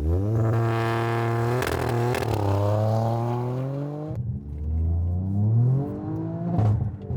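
Straight-piped Toyota Yaris GR's turbocharged three-cylinder engine revving: the revs climb fast, fall away, then climb again, with a few sharp cracks from the exhaust.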